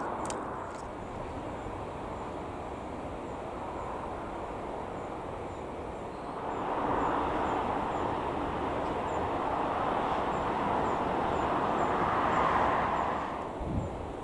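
Distant jet airliner engine noise, a steady rushing that swells about halfway through and cuts off abruptly near the end with a brief low thump.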